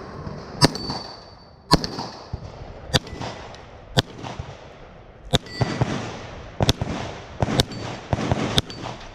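Gunshots fired one at a time during a multigun stage: about eight sharp shots spaced roughly a second apart, some followed by a brief high ringing.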